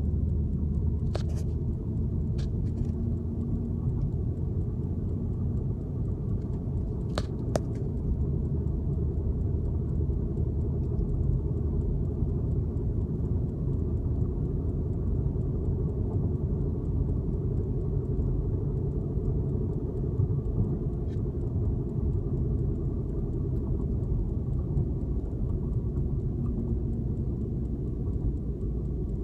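Road and tyre rumble heard inside the cabin of a 2006 Lexus IS 350 on the move, with a few short clicks in the first several seconds. It carries a noise from the left tyre that persists after a new wheel bearing hub; the owner describes it as a "womp womp" that gets faster with speed but not louder.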